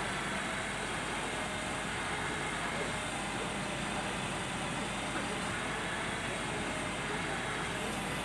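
A crane's engine running steadily at an even, unchanging pitch.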